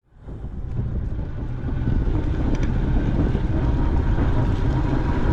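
Wind buffeting the microphone of a camera on a moving bicycle, a dense low rumble that fades in over the first couple of seconds and then holds steady, with a faint steady whine above it.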